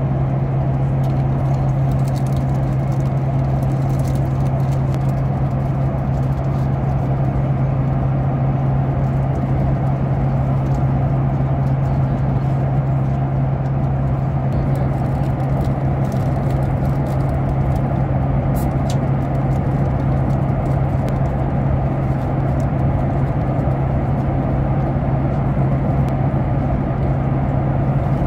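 Steady cabin noise inside a Boeing 737 MAX 8 airliner in flight: an even rush of airflow and engine drone with a strong low hum, holding the same level throughout.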